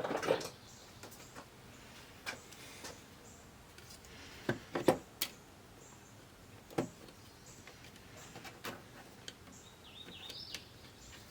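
Scattered clicks and knocks of plastic TV parts and wiring being handled and fitted during reassembly, with a short high squeak near the end.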